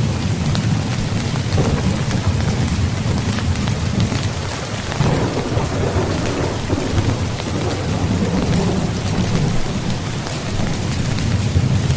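Rain pattering steadily on a tent, with many small drop ticks and a low rumble underneath that swells a little mid-way.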